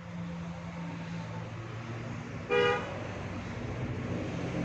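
A single short vehicle horn honk about two and a half seconds in, over a steady low hum.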